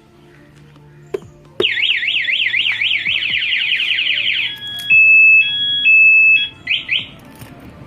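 Motorcycle alarm siren running through its tone patterns: a fast up-and-down wail that speeds up, then a loud alternating two-tone, then a few quick rising chirps. It starts about a second and a half in, just after a click, and stops shortly before the end.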